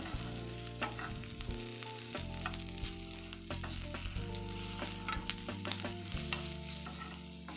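Chopped okra sizzling in oil in a non-stick pan as it is stirred with a wooden spatula, with scattered clicks and scrapes of the spatula against the pan. Soft instrumental music with sustained notes plays underneath.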